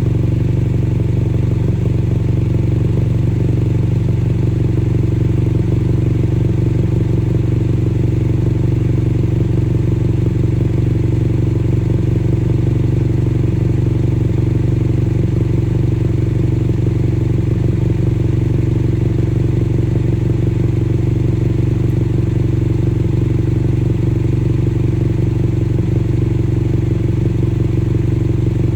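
BMW F800GS's parallel-twin engine idling steadily through a freshly fitted Delkevic 9-inch oval slip-on exhaust with its baffle in.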